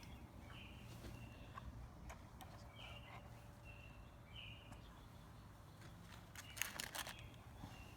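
Near silence: quiet room tone with a few faint, short, high chirps from a bird, and a brief patter of faint clicks and rustling about six and a half seconds in.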